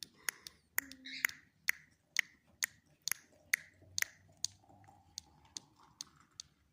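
A series of sharp, regular clicks, about two a second, each with a brief ringing tail, and a faint tone slowly rising in pitch through the second half.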